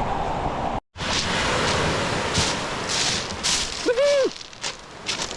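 Wind buffeting the microphone over water noise, with crackling gusts. It cuts out abruptly for a moment about a second in. Near four seconds a single short call rises and falls in pitch.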